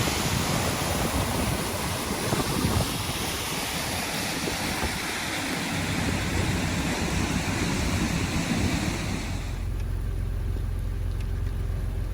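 Steady rushing noise of heavy rain and wind on the microphone. About nine seconds in it cuts off suddenly and a low steady engine-like hum is left.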